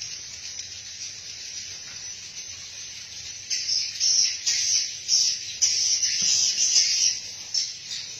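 Swiftlets twittering: a dense, high, continuous chatter of chirps that grows louder in bursts from about three and a half seconds in until near the end.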